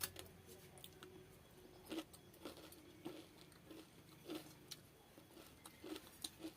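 Faint eating sounds: a scattered run of small wet clicks and smacks at irregular intervals, from chewing and eating pakhala and fried fish by hand.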